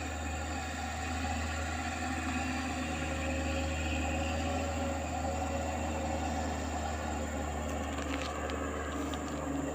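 Timber lorry's engine running steadily with an even, low hum, and a few faint ticks near the end.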